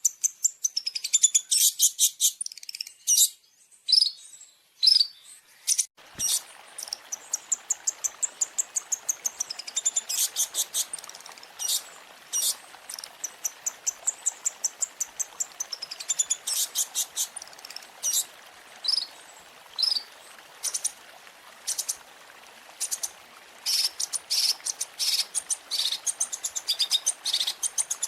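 Long-tailed shrike (cendet) singing a fast, high-pitched chattering song of quick repeated notes and trills. About six seconds in, a steady background hiss begins under the song.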